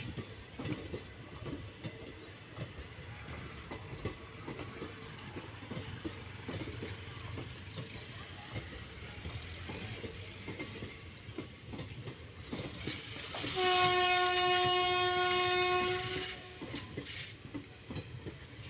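Indian Railways passenger coaches rolling past, wheels clattering over the rails with an irregular knocking and rumble. About two-thirds of the way in, a train horn sounds one steady blast of about two and a half seconds, the loudest sound.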